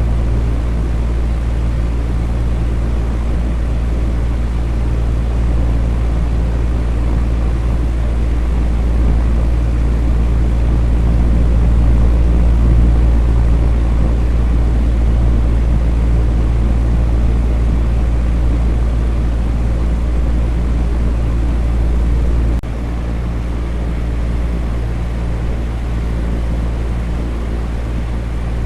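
Electric fan running steadily: an even whooshing noise over a low hum. About three-quarters of the way through, the low rumble drops suddenly a little and then holds steady.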